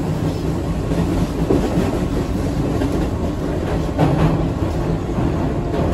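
Keihan 8000 series electric train running along the track: a steady wheel-and-rail rumble with a few sharp clicks, one about four seconds in and another near the end.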